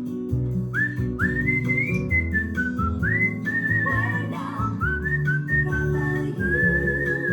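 Cockatiel whistling a string of clear notes, many swooping up and then held with a slight wobble, over background music with steady low instrumental notes.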